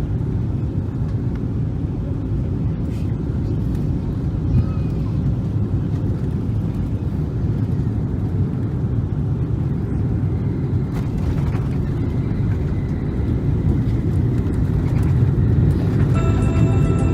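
Steady low roar inside the cabin of a Boeing 777-300 airliner: engine and airflow noise during the approach and landing phase. Music begins over it near the end.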